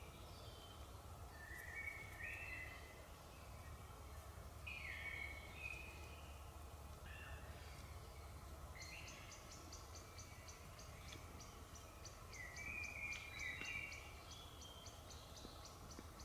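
Faint birdsong: short warbling phrases, repeated every few seconds. From about halfway, a rapid, even series of high ticks joins in. A steady low rumble runs underneath.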